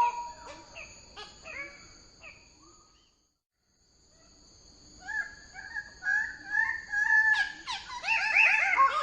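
Bird-of-paradise calling in quick series of repeated, pitched notes; the calls fade away about three seconds in, stop completely for about a second, then start again and build up louder near the end.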